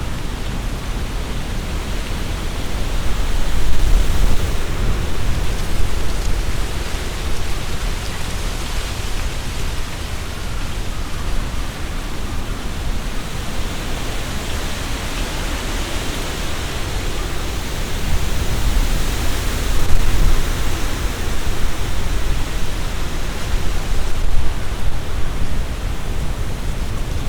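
Strong gusty wind in trees: leaves rustling with a low rumble of wind buffeting the microphone. Gusts swell about four seconds in and again around twenty seconds.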